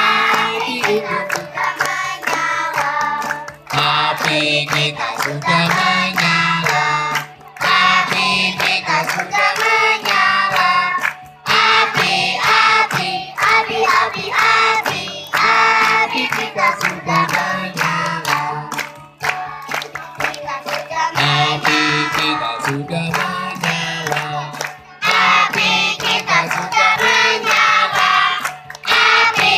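A group of children singing a scout campfire song in unison, with short breaks between phrases.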